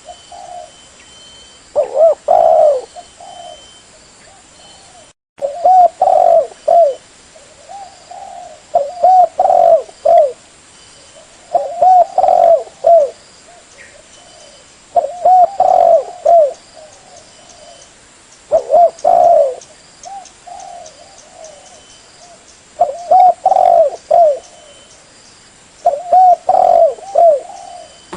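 Spotted dove (tekukur) cooing: about eight repeated phrases, each a run of several short arched coos, one phrase every three to four seconds. It is the male's song as used for a lure call to draw wild doves.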